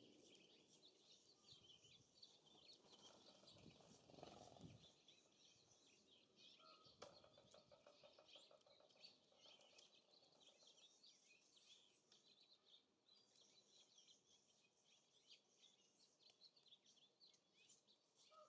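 Faint songbirds chirping and twittering at a feeder, with a low gust of wind on the microphone around four seconds in and a single sharp click about seven seconds in.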